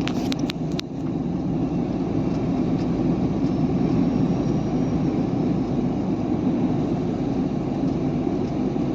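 Steady, low drone of a truck's engine and tyre noise as it drives slowly, heard from inside the cab, with a few short clicks in the first second.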